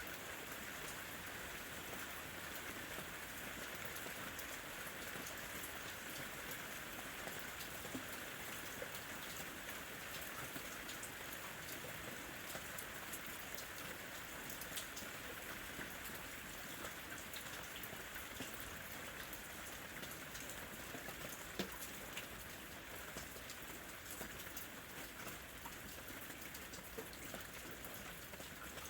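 Steady rain falling, an even hiss dotted with many sharp ticks of single drops striking close surfaces.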